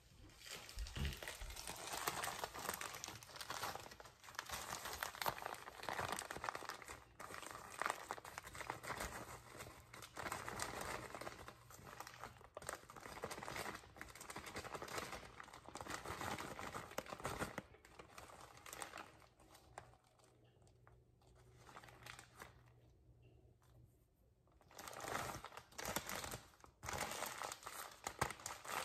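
Crinkling and crumpling of plastic or paper being handled, in irregular spurts, easing off for a few seconds about two-thirds through before starting again.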